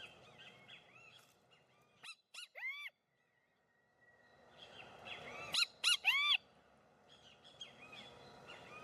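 Birds calling in repeated arched, high-pitched notes, in two loud bouts with a short gap between them. The speaker takes the calling for territorial agitation: the birds are disturbed because she has entered their territory.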